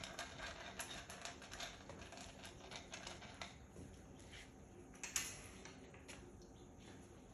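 Faint, irregular light clicks and taps, with one sharper click about five seconds in.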